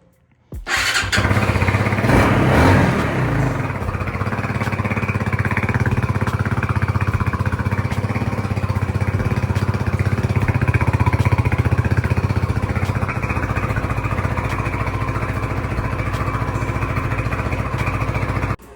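Hawk 250 dual-sport motorcycle's single-cylinder four-stroke engine catching about half a second in, revving briefly, then idling steadily until it stops suddenly near the end. This is a new engine's first start, and after dying twice it now keeps running.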